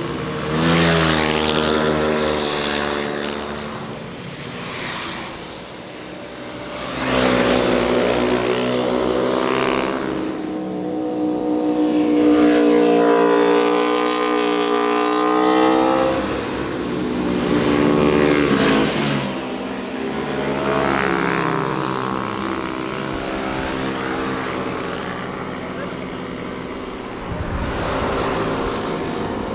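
A series of motorcycles passing at speed one after another, each engine note rising as it approaches and falling away as it goes by, about five passes with busier stretches in the middle.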